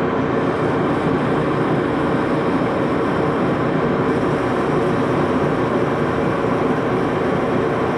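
Axelson metal lathe running steadily with a continuous mechanical hum and a faint whine from its drive, unchanging throughout.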